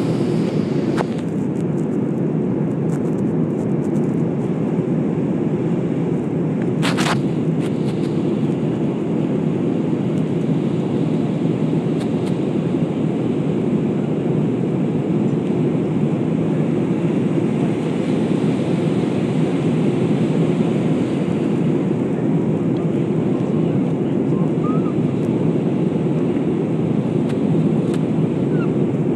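Steady rumble of a jet airliner heard from inside the passenger cabin: engine and airflow noise, unchanging throughout. A brief sharp noise cuts through it about seven seconds in.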